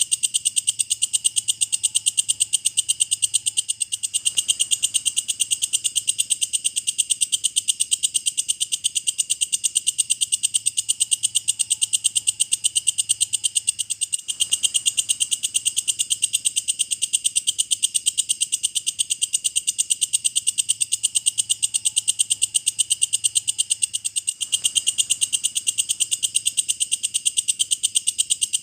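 Walang kecek, a katydid, calling: an unbroken high-pitched buzzing trill of rapid, even pulses, several a second.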